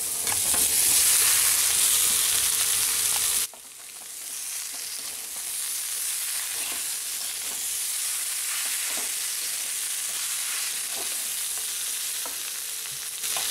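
Boiled potato pieces frying in hot oil in a kadhai with onions and spices, a steady sizzle that drops suddenly to a quieter sizzle about three and a half seconds in. A steel spatula scrapes the pan now and then as the potatoes are stirred.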